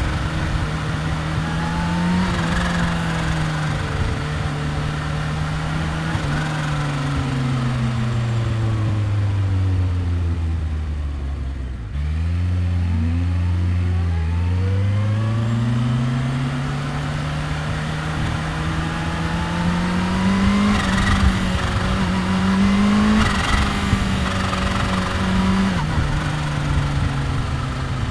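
Kawasaki Ninja H2's supercharged inline-four engine and exhaust on the road. The revs fall off for the first half as the bike slows, and jump suddenly about halfway through. The revs then climb steadily as it accelerates, with a few steps in pitch near the end.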